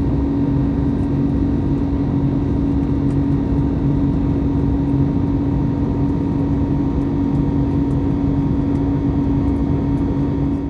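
Steady drone of an Airbus A321neoLR's jet engines and airflow heard inside the passenger cabin, with a constant low hum running under the noise.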